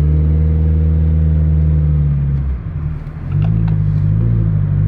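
Nissan 240SX's 2.4-litre four-cylinder engine running loud through an exhaust with the muffler cut off and the catalytic converter left on. Its revs are held steady, dip for under a second about two and a half seconds in, then pick back up.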